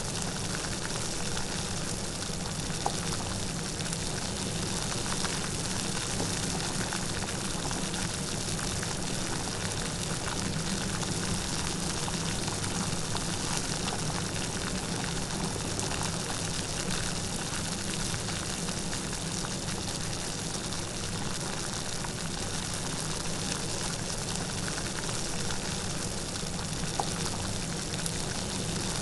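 Light rain falling steadily, an even hiss of drops, with a couple of slightly louder single drips.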